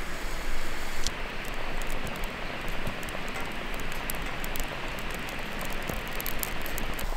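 Mountain stream water rushing steadily, with faint sharp ticks scattered over it.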